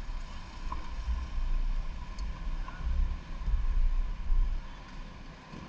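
Wind buffeting the microphone on a moving motorcycle, a gusty low rumble that dies down about five seconds in.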